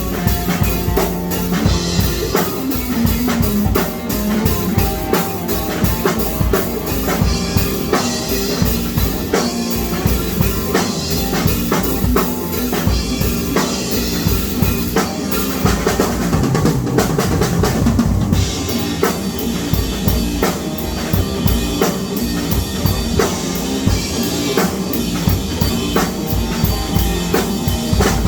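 Music dominated by a drum kit playing a steady, busy beat of closely spaced strikes throughout.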